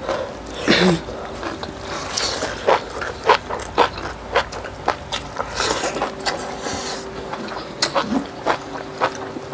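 Close-up mouth sounds of two people eating fried chicken and rice with their hands: chewing, wet lip smacks and sharp clicks coming irregularly several times a second, with a brief murmur about a second in and again near the end.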